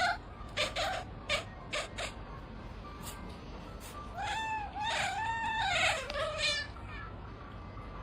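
A cat calling in a long drawn-out meow that rises and falls in several arches, about halfway through. A few short knocks are heard in the first two seconds.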